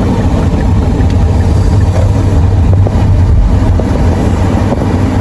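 Car driving: a steady low rumble of road and engine noise heard from inside the cabin.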